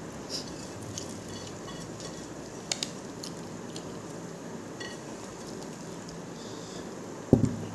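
A person eating with his hands and chewing, heard as small scattered clicks over a steady low hum, with one loud thump near the end.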